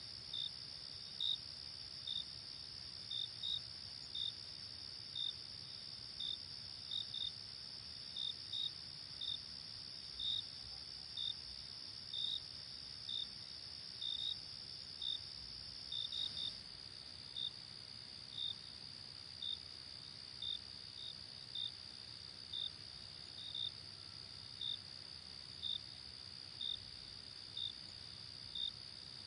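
Night-time crickets: a steady high insect trill with short chirps repeating about once a second, sometimes in pairs, over a faint hiss. The steady trill drops slightly in pitch a little over halfway through.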